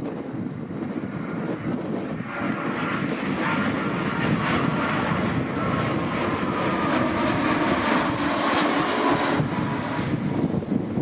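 Airliner's engines passing close by, the sound building about two seconds in and strongest near the end, with a high whine that slowly falls in pitch as it goes past.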